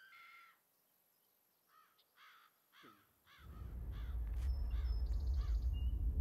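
A bird calls over and over, about two short calls a second. From about halfway through, a deep low rumble fades in and grows steadily louder, becoming the loudest sound by the end.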